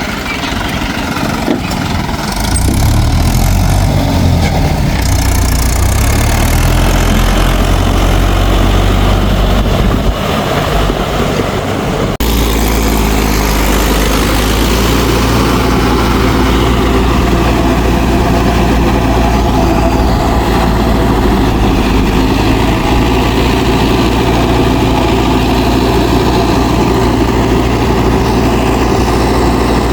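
Mahindra 4WD DI tractor's diesel engine running; it grows louder a couple of seconds in, its sound changes abruptly about twelve seconds in, and it then runs steadily.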